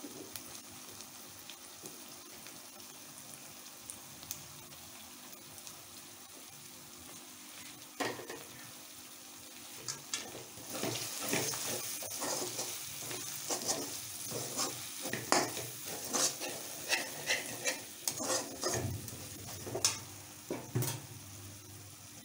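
Onion, tomato and chilli masala sizzling in oil in a pan. From about eight seconds in, a steel spatula stirs it, scraping and knocking on the pan in many short strokes, and the sizzle gets louder.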